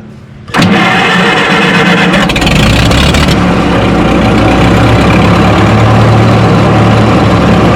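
Minneapolis Moline tractor engine being restarted: after a brief lull, the starter cranks about half a second in, the engine catches about two seconds in, and it settles into a steady run.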